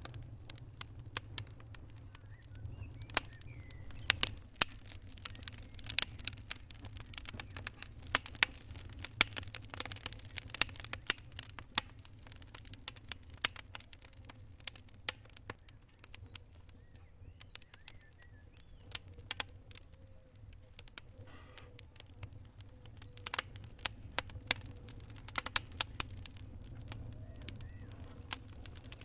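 Wood fire crackling: irregular sharp pops and snaps, thicker in some stretches than others, over a low steady rumble.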